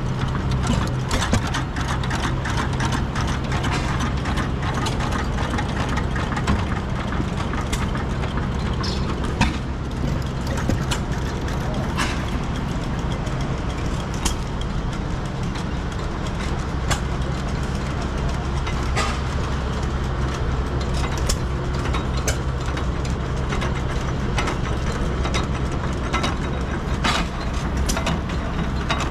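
Old engines running steadily with a low hum, under a dense, irregular clatter of mechanical clicks and ticks.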